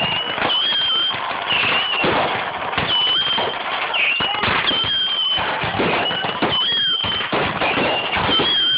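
Fireworks grand finale: a dense, unbroken barrage of bangs and crackling, with short high whistles recurring about once a second.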